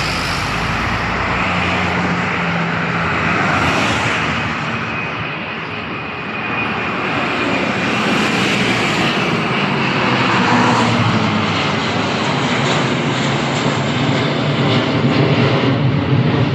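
Aircraft engines running loudly and steadily at close range, with a faint high whine over the noise.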